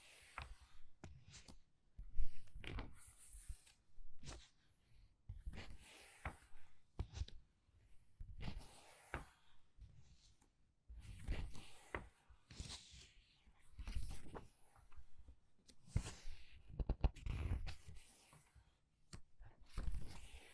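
Paper book pages being turned quickly one after another, each turn a short crisp swish and flap of paper, about one every second or two.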